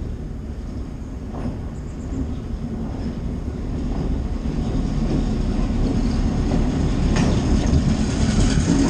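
Big Trees train, a diesel locomotive hauling passenger cars, approaching on the track, its rumble steadily growing louder.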